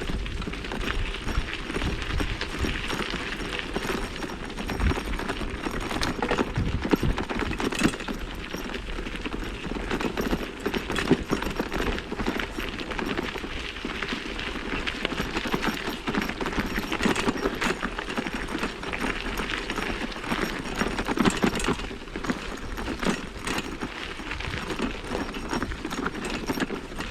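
Vintage mountain bike rolling over a rough dirt trail: steady tyre noise on the ground with many small irregular clicks and knocks from the bike jolting over bumps.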